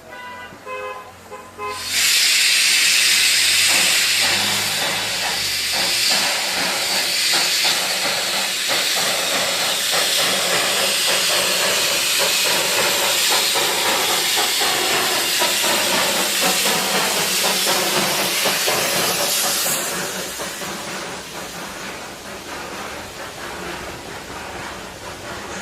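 Darjeeling Himalayan Railway steam locomotive blowing off steam: a loud hiss starts suddenly about two seconds in after a brief pitched sound, holds steady, then eases to a quieter hiss near the end.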